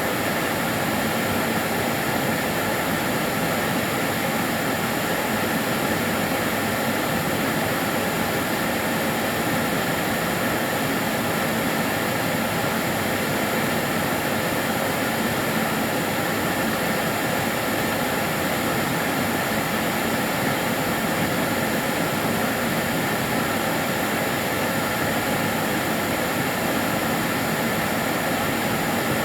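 Karcher DS 6 Premium water-filter vacuum cleaner running continuously: a steady whoosh of rushing air from its motor, with a faint high whine and no change in pitch or level.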